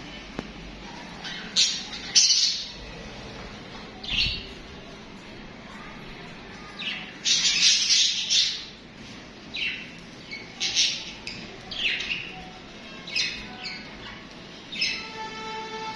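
Budgerigars chirping and squawking in short, high bursts of calls, with a longer run of chatter about halfway through and quicker calls, roughly one a second, over the last several seconds. Near the end a steady pitched tone with overtones joins in.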